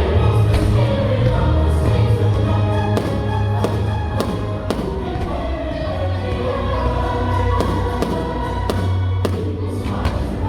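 Choral Christmas music playing loudly for a fireworks show, with a deep bass underneath and firework bursts banging through it, a few in the first half and a quick run of several near the end.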